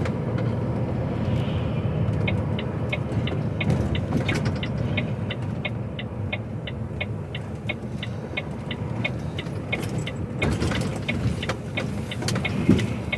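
HGV truck cab with the diesel engine and road noise rumbling steadily under way, and the turn indicator ticking about three times a second from about two seconds in, signalling for the turn at the roundabout. A short louder noise comes about ten seconds in.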